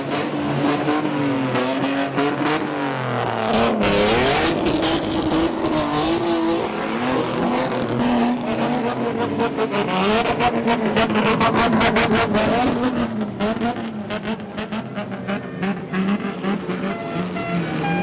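Customized old car (kaido racer) engine revving loudly, its pitch climbing and dropping again and again, with a rapid rattling crackle from the exhaust around the middle.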